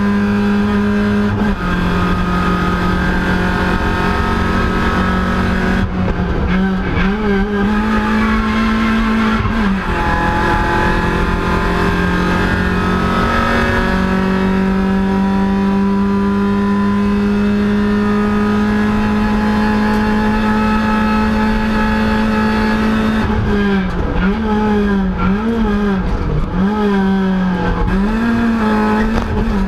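VW Lupo hillclimb race car's engine running hard at high revs, heard from inside the cabin. Its note holds mostly steady, wavers up and down several times about a third of the way in, and rises and falls quickly again and again in the last several seconds.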